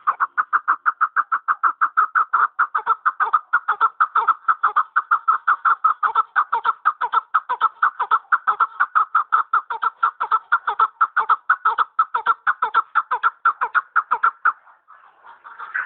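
Chukar partridge calling: a fast, steady run of short clucking notes, about five or six a second, breaking off briefly near the end and then starting again.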